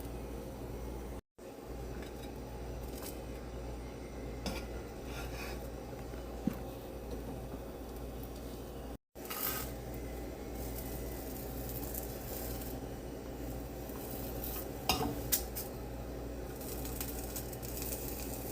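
Kitchen utensils and dishes clinking now and then over a steady low hum, the sound dropping out completely twice for a moment.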